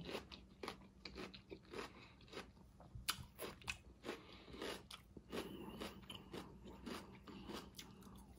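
Close-miked mouth chewing of sautéed zucchini, yellow squash and red onion: a run of faint, irregular wet clicks and soft crunches.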